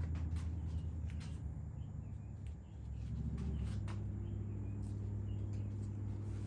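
A steady low machine hum that dips and settles at a different pitch about three seconds in. Faint bird chirps and a few light clicks sit above it.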